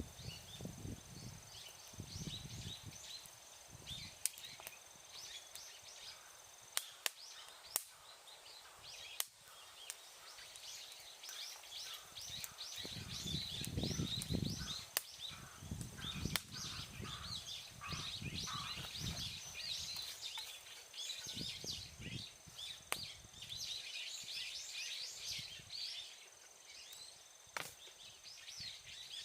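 Birds chirping throughout, with a wood campfire crackling and giving several sharp, isolated pops.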